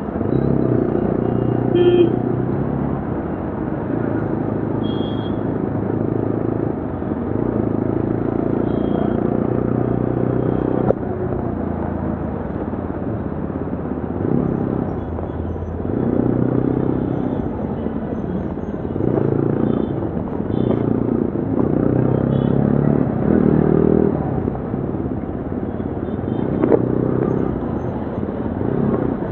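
2025 Yezdi Adventure's single-cylinder engine and slightly modified exhaust while riding, the engine note repeatedly rising and dropping as the bike accelerates and shifts through the gears. Brief horn toots from traffic come through now and then.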